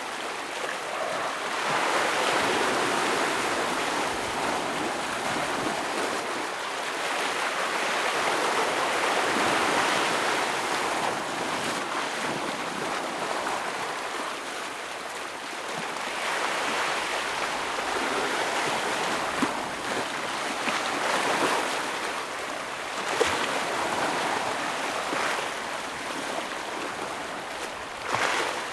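Ocean waves breaking against shore rocks: a continuous wash of surf that swells and falls every few seconds, with a few sharper splashes in the second half.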